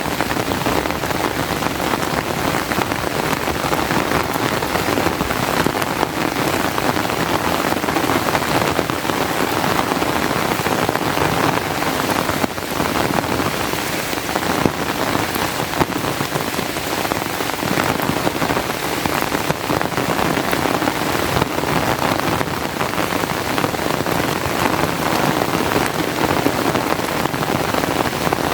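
Steady rain falling, a dense even patter of drops that holds at the same level throughout.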